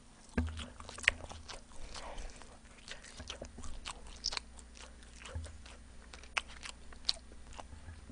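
A person biting into and chewing sauce-coated fried chicken close to the microphone: irregular crunches and wet clicks, the sharpest a little after the start and about a second in.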